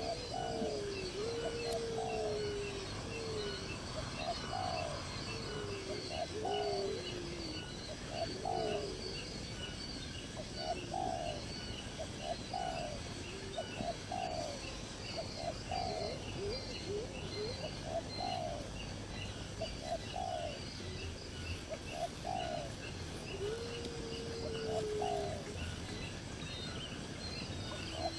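Birds calling: a short low call repeated about once a second, with longer sliding calls in the first few seconds and again near the end, over steady high-pitched chirping.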